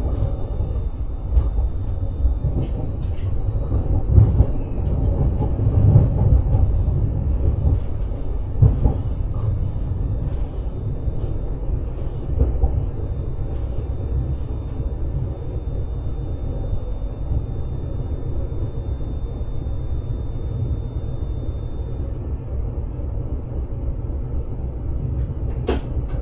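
Sprinter passenger train running along the line, heard from inside the driver's cab: a steady low rumble with scattered light knocks, and a sharp click near the end.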